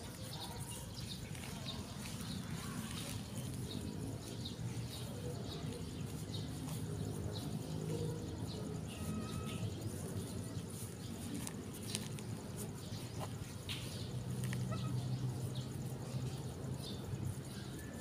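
Outdoor ambience: a bird chirping over and over, about twice a second, above a low steady rumble, with a couple of faint clicks.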